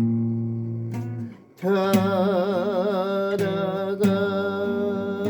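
A solo voice singing a slow Korean song over acoustic guitar accompaniment. A chord rings for about a second, there is a brief break, then the voice comes back in with a wavering, vibrato-laden line.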